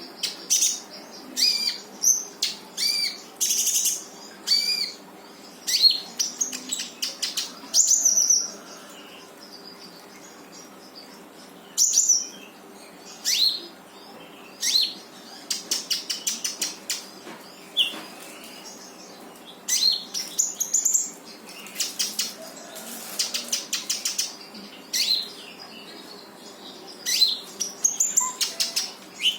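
Konin songbird singing in full voice: bursts of sharp, high whistled notes alternating with fast chattering trills, separated by short pauses.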